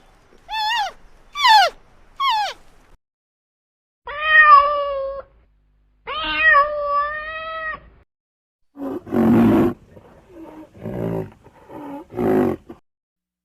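Cat meowing: a few short mews falling in pitch, then two longer drawn-out meows. In the second half come several harsher, rougher calls, the first of them the loudest.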